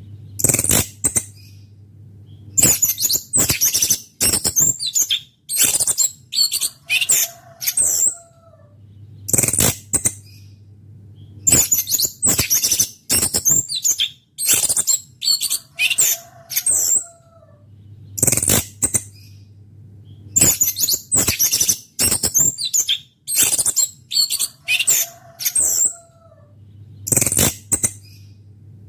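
Small songbird singing in short, rapid, very high bursts of twittering song, in clusters that come back about every nine seconds, over a steady low hum.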